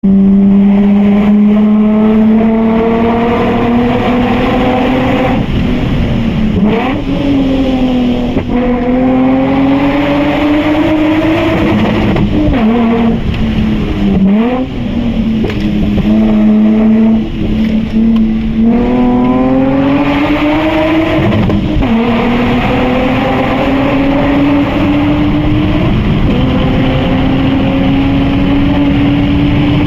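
Lexus IS200 with a full Japspeed exhaust system, driving and accelerating. The exhaust note climbs slowly in pitch, then breaks and drops several times at gear changes, before settling into a steady, slowly rising drone near the end.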